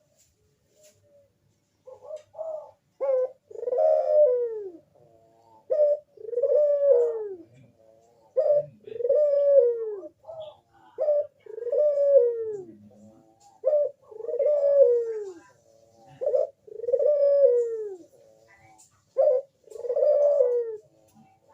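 Crossbred puter dove cooing, starting about two seconds in. It repeats the same phrase about seven times, each one or two short notes followed by a long, falling coo.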